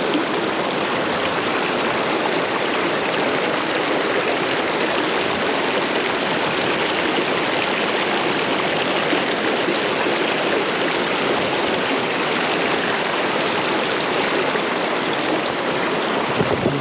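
Steady rushing of stream water, a constant even wash of noise.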